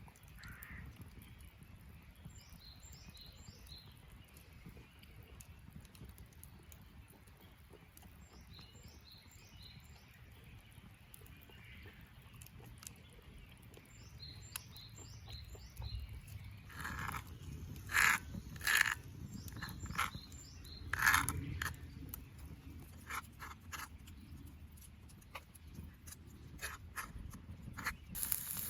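Small birds chirping in short repeated phrases every few seconds over a low steady rumble. From a little past halfway there is a series of sharp cracks and clicks, the loudest sounds.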